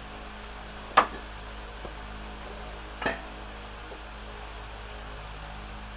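Two sharp knocks of hard objects, about two seconds apart, the first louder, over a steady electrical hum.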